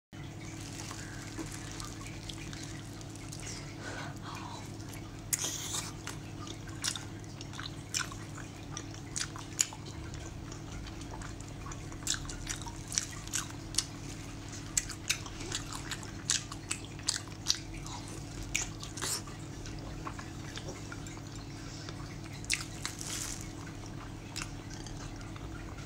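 Close-miked wet eating sounds: a braised pig's trotter being chewed, with sharp irregular lip-smacking and sucking clicks that start a few seconds in. A steady low hum runs underneath.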